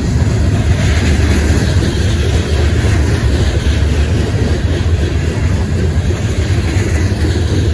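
Train passing close by: a loud, steady low rumble with rail and wheel noise over it.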